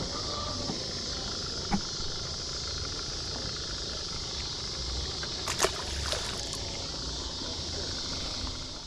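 Steady outdoor background hiss, strongest in the high range, broken by a few short sharp clicks or knocks: one about two seconds in and a close pair about halfway through.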